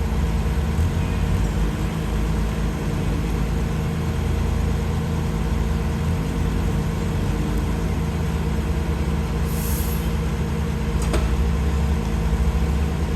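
Heavy engine running steadily at a constant speed, with a short hiss of air about ten seconds in.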